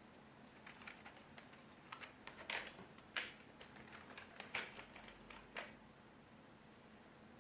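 Irregular clicks and taps of a plastic wireless keyboard being handled, with keys pressed now and then: about a dozen over five seconds, the loudest near the middle.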